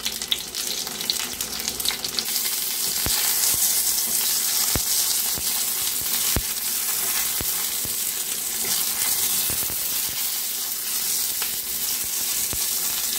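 Halved eggplants frying in hot oil in a pan: a steady sizzling hiss that grows louder about two seconds in, with scattered sharp pops.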